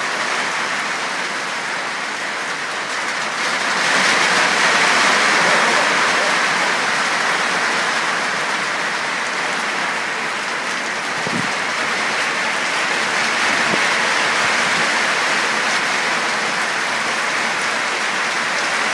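Rain falling steadily, growing louder about four seconds in.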